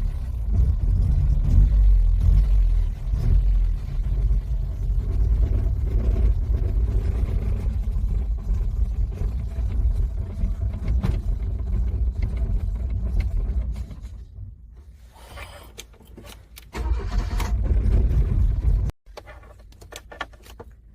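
Car engine cranking on its starter in freezing cold and failing to catch. The cranking stops about two-thirds of the way through, then a second short bout of cranking cuts off suddenly near the end.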